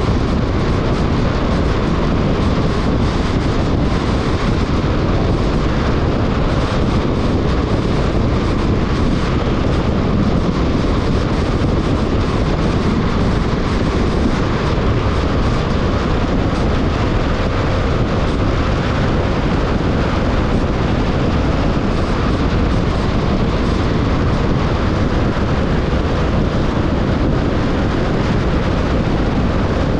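Car driving at steady speed: constant road and wind noise, even throughout.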